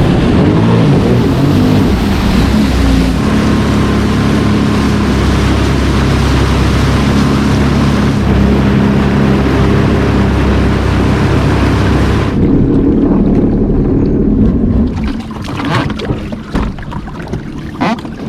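Sea-Doo personal watercraft running under way, its engine note under a dense rush of spray and wind. About twelve seconds in the rush cuts off as the craft slows. From about fifteen seconds the engine runs quieter, with scattered knocks and splashes of water against the hull.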